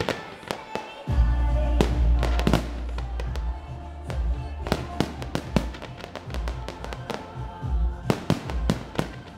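Fireworks going off in quick succession, a string of sharp bangs and crackles, over music.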